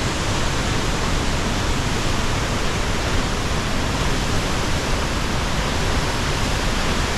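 Aguasabon Falls rushing: a steady, even roar of falling water with no breaks.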